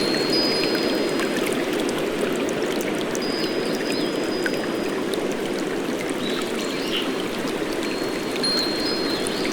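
Steady rushing rain-and-water nature ambience, with a few faint, thin, high held whistling notes of birdsong.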